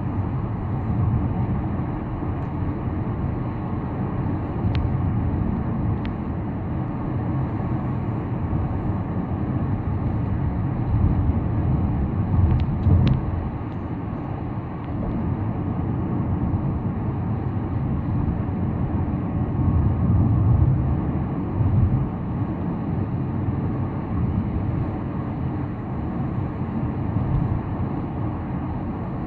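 A car driving on the road: a steady low rumble of tyre and engine noise, swelling louder a couple of times.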